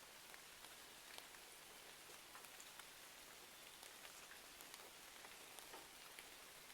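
Faint, steady rain: a soft hiss with many small sharp ticks scattered all through it.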